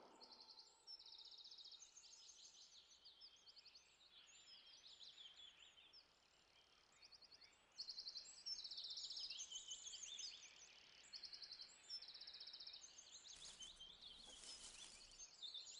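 Faint songbirds singing: high chirps and quick trills overlapping one another, getting louder about eight seconds in.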